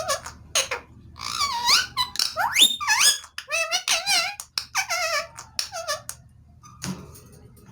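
Rose-ringed (ringneck) parakeet vocalising in a run of high, squeaky notes that waver up and down and glide upward, for about six seconds before falling quiet.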